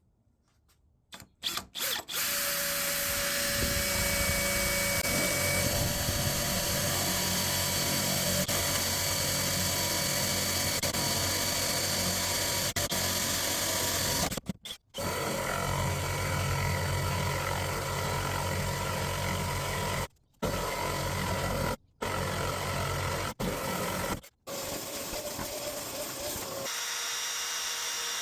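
A power tool running steadily on wood, cut off abruptly several times as short clips are joined.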